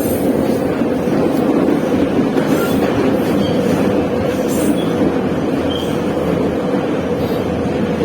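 Moscow metro train running at speed between stations: a steady rumble of wheels on the rails, with faint short squeals now and then.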